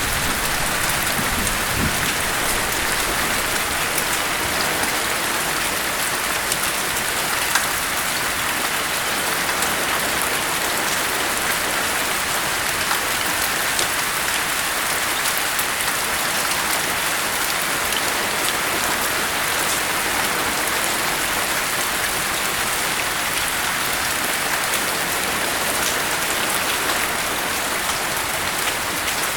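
Steady rain, a dense even hiss of falling water with the patter of individual drops. The low tail of a thunder rumble dies away in the first couple of seconds.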